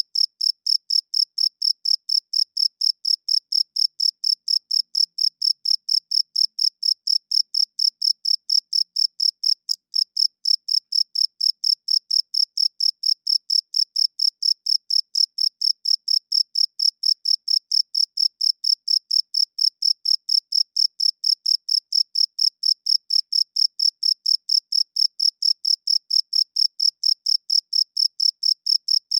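Cricket chirping in a steady, even rhythm, several short high-pitched chirps a second on a single note, unbroken throughout.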